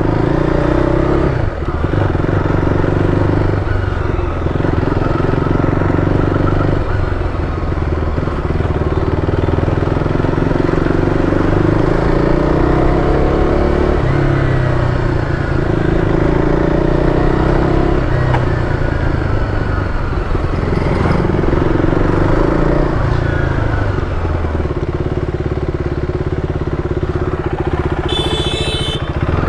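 KTM 390 Duke's single-cylinder engine running under a rider on a test ride, its revs rising and falling several times. A brief high-pitched tone sounds near the end.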